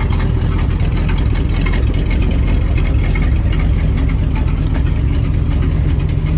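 1974 Chevrolet C65 grain truck's 366 V8 idling steadily, loud and even; the exhaust badly needs mufflers.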